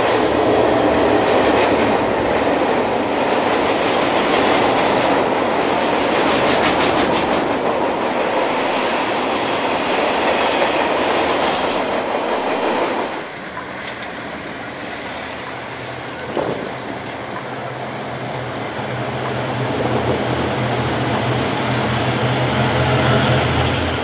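Diesel freight locomotive and its train of wagons passing close by, rumbling and clattering over the rails, with a brief high wheel squeal at the start. About halfway through the noise drops off suddenly, leaving a lower engine drone that grows louder toward the end.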